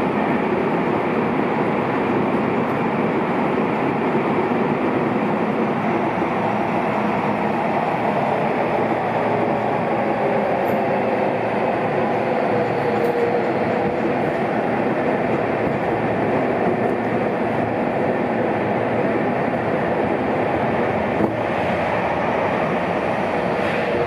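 Seibu 6000 series electric train running through a subway tunnel: steady wheel-on-rail rumble with a faint traction motor hum. A single short click comes near the end.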